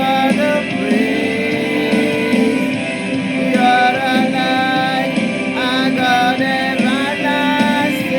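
Worship song playing: a singing voice carries a melody over steady instrumental accompaniment.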